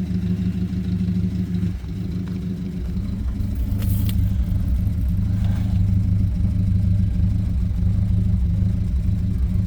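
Ford Prefect engine ticking over at a steady idle, its note shifting slightly about two seconds in.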